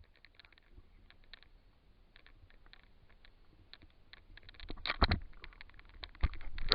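Irregular run of small sharp clicks and taps, faint at first and louder in the last couple of seconds, with a dull knock near the end.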